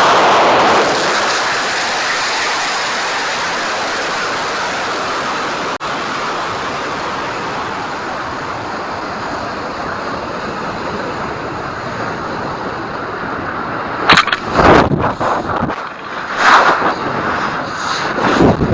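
High-power rocket motor roar: it breaks in suddenly and then fades slowly over about fourteen seconds as the rocket climbs away.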